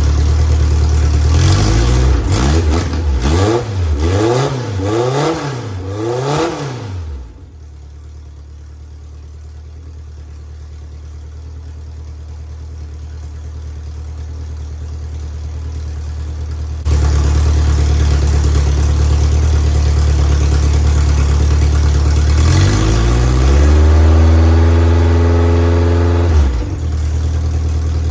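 A Van Diemen Formula 2000 race car's 2-litre inline-four engine running after long storage: idling, blipped up and down about four times, then dropping away to a much quieter stretch. It comes back in suddenly at idle, is revved up and held for a few seconds, then falls back to idle.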